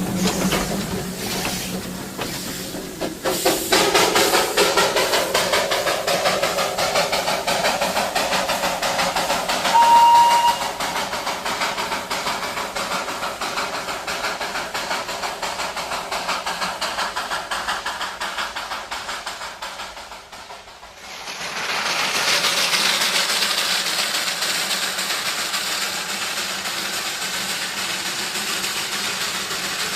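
Darjeeling Himalayan Railway toy train running, with a steady hissing noise and one short, high whistle blast about ten seconds in. The noise falls away briefly about two-thirds of the way through, then picks up again.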